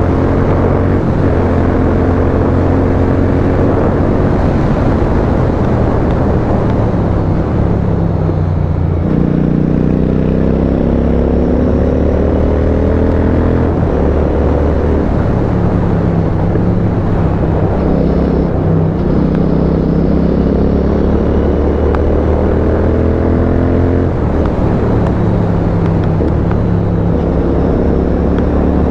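Royal Enfield Continental GT 650's parallel-twin engine, fitted with an aftermarket exhaust, pulling hard under acceleration. The note climbs and then drops back at each upshift, several times, over a steady rush of wind.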